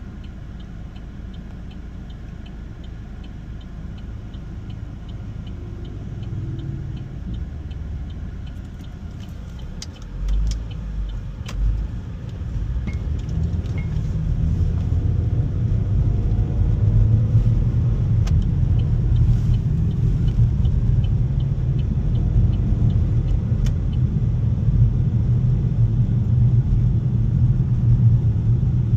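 Inside an SUV cabin while driving: a low rumble of engine and road noise that grows louder from about halfway as the car picks up speed. A turn signal ticks steadily near the start and again later, with a few sharp clicks about ten seconds in.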